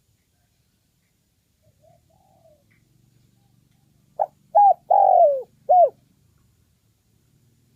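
A spotted dove cooing one phrase of four notes about four seconds in: a short note, a second short note, a long note that falls in pitch, then a final short note. Faint, soft calls come a couple of seconds before the phrase.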